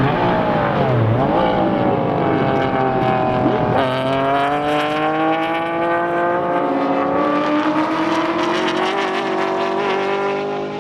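V8-engined race cars running hard on the circuit. The engine note dips and rises in the first second and a half. About four seconds in, a sharper, higher engine note cuts in and climbs slowly as a car accelerates.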